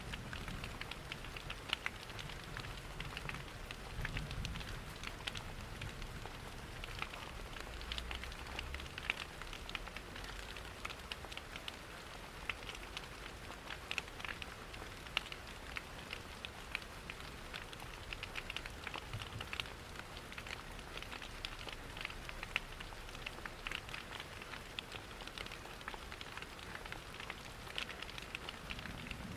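Steady rain mixed with a crackling wood fire: an even patter of rain with many small, sharp crackles scattered through it.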